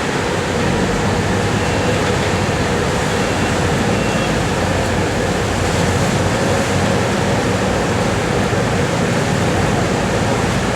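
Steady drone of a Fast Cat catamaran ferry's engines with rushing water and wind noise as the boat comes in to dock, a low hum under a loud even rush.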